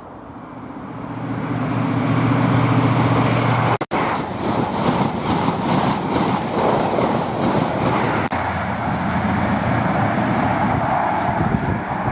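A train passing at speed: noise builds over the first couple of seconds with a steady low drone, then, after a brief break, rhythmic clatter of wheels over rail joints.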